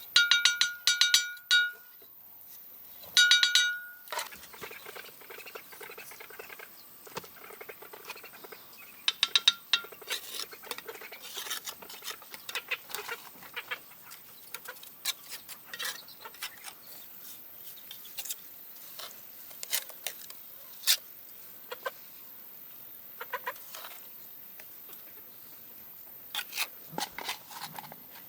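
Chickens calling in two loud, drawn-out squawks near the start, followed by scattered light taps and clicks.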